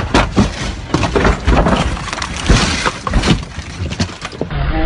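Car crash: a run of sudden impacts, crunching and breaking glass over about four seconds.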